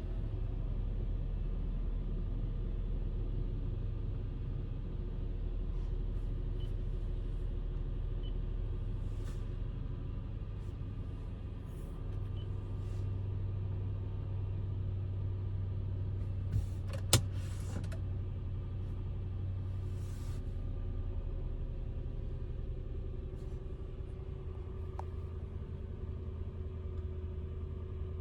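2005 Lexus GX470's 4.7-litre V8 idling steadily just after a cold start, the idle settling to a new speed about twelve seconds in and again about twenty-one seconds in as the fast idle of the cold engine eases off. A single sharp click about seventeen seconds in.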